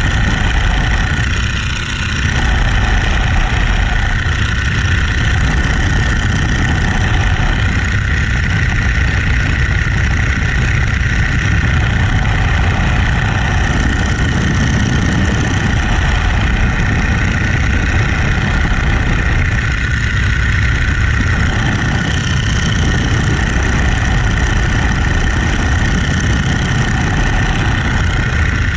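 Radial engine of a Boeing-Stearman Model 75 biplane running steadily in flight, mixed with rushing wind.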